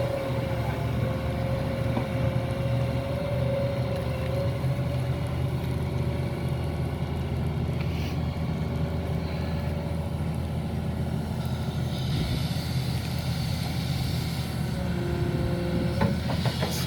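Doosan excavator's diesel engine running steadily under load with a steady higher tone over it, as the machine drags itself along with its bucket because one track's final drive does not work.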